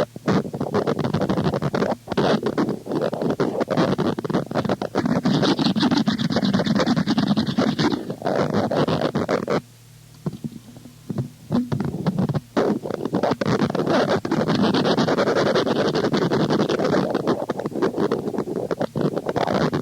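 Harsh noise music: a dense wall of scraping, crackling noise chopped by rapid stuttering cuts. It drops to a thinner, quieter stretch about ten seconds in, then the full wall of noise resumes.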